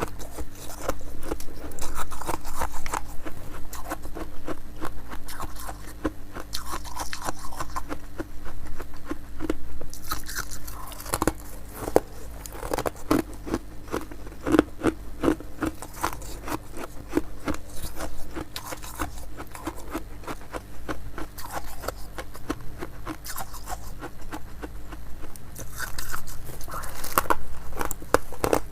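Close-miked crunching and chewing of ice: dense, irregular cracks and crunches as ice is bitten and ground between the teeth, with no pause longer than a moment.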